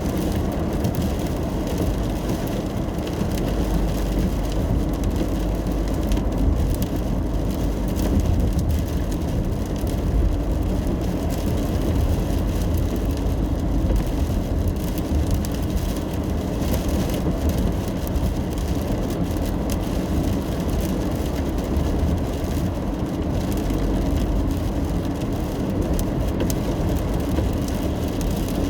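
Steady road noise inside a car driving in the rain: a low tyre and engine rumble with faint pattering of rain on the car.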